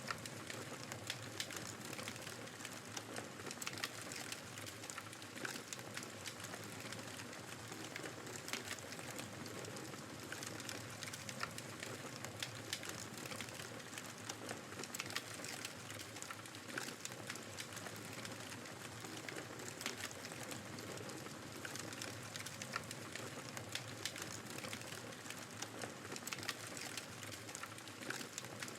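Wood fire crackling with many small, irregular pops over the steady rushing noise of a snowstorm wind.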